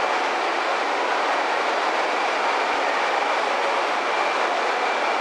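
Steady hiss and hum of a Shinkansen 200 series trainset standing at the platform, with faint steady whine tones over an even rushing noise.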